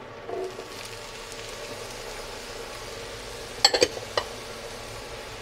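Diced aubergine tipped into hot olive oil in a frying pan, starting a steady sizzle about half a second in. A short cluster of sharp clicks comes a little past halfway.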